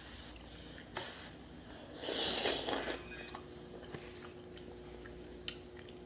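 Mukbang eating sounds from a saucy seafood boil: biting, chewing and wet squishing, with a few small clicks and one louder noisy stretch of about a second around two seconds in.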